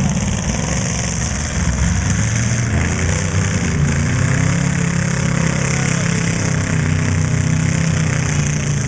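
Demolition derby car engines running and revving, a loud steady drone whose pitch shifts as the throttles open and close.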